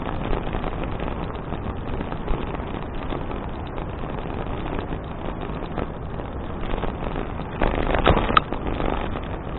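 Wind rushing over a bicycle-mounted action camera's microphone as the bike rides along, with light rattling and a short cluster of louder knocks about eight seconds in.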